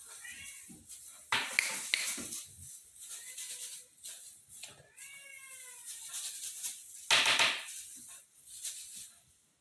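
Devon Rex kitten meowing, short rising-and-falling calls near the start and again about halfway through, with loud short rushing bursts of noise in between.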